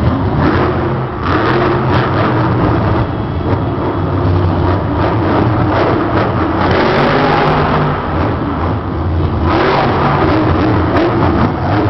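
Monster truck engines running loud and revving, the engine note rising and falling, with harder surges about a second in and again from about seven to nine and a half seconds in.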